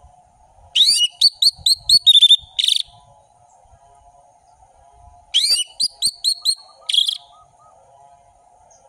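Orange-headed thrush (anis merah) singing in full, open voice. There are two loud phrases, about four seconds apart, each a quick run of sweeping whistled notes ending in a short buzzy note.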